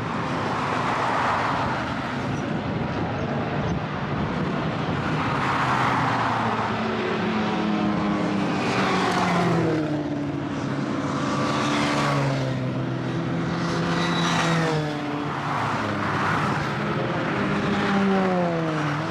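Classic race cars' engines running hard as they pass on the circuit one after another. Swells of engine and tyre noise come and go, and each engine note drops in pitch as the car goes by.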